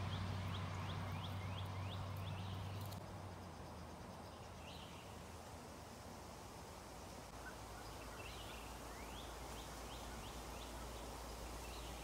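A bird calling in two quick runs of short repeated chirps, at the start and again about nine seconds in, over a low hum that fades out about three seconds in.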